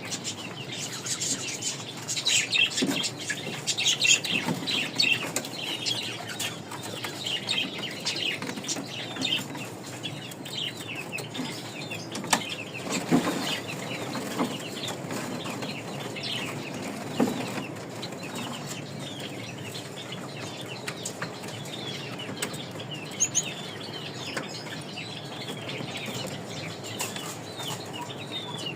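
Gouldian finch chicks chirping constantly in short, high calls, busiest in the first ten seconds and thinner after, with wing flutters and a few sharp knocks in the middle.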